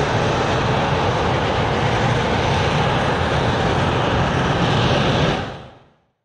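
Loud, steady jet engine noise from a Harrier jump jet, fading out over the last second or so.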